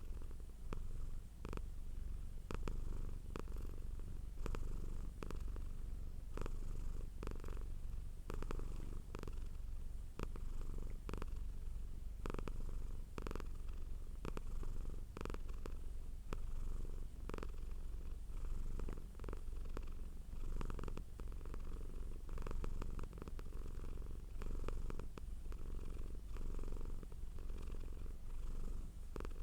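Domestic cat purring steadily and continuously, the purr swelling and easing in a regular rhythm about once a second.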